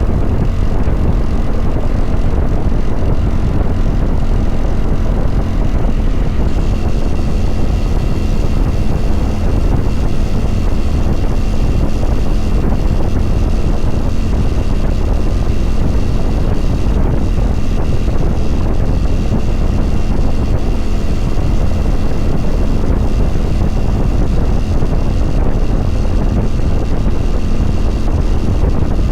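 2022 Kawasaki Vulcan 900 Classic LT's V-twin engine running at a steady cruise while riding, with wind rushing over the microphone.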